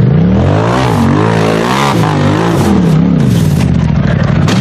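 An off-road vehicle's engine revving hard, its pitch climbing and dropping again several times as the throttle is worked.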